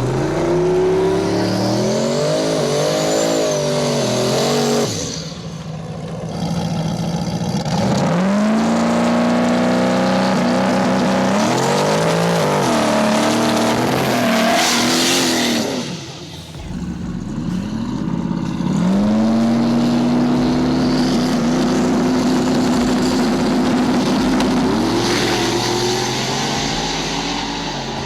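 Mustang drag cars' engines at full throttle, accelerating hard. The pitch climbs and then drops back at each gear change. This happens in about four runs, with brief lulls between them.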